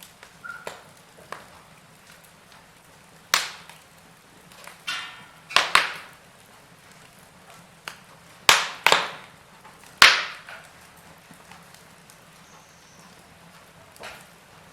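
Wood fire in a fireplace crackling: scattered sharp pops and snaps, about six of them loud through the middle stretch, over a faint steady background.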